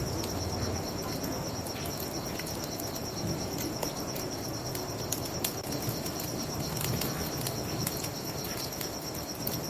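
Crickets trilling steadily in a fast, even pulse over a bonfire crackling with scattered sharp pops.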